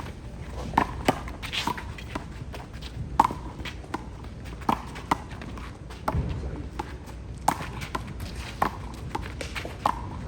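A handball rally: a rubber handball smacking sharply off players' hands, the wall and the court at irregular intervals, with sneakers scuffing on the court as players run.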